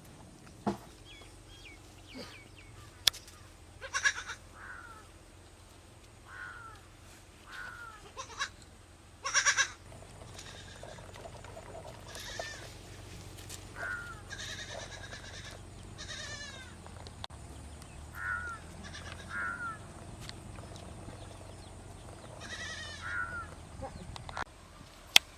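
Short animal calls, many of them, each falling in pitch, repeated every second or two, with a few sharp knocks among them.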